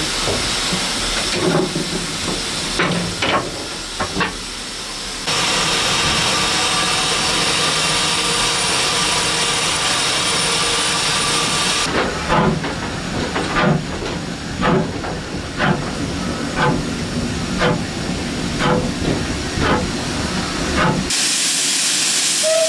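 Steam locomotive letting off a steady hiss of steam, then working with regular exhaust beats at about two a second.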